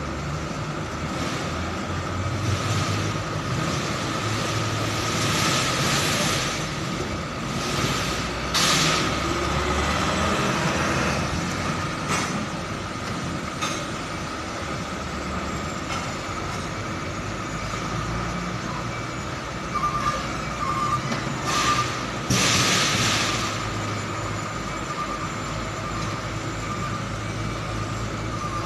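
Container truck engine running steadily at low revs, with two short bursts of hiss and a few reversing-alarm beeps about two-thirds of the way through.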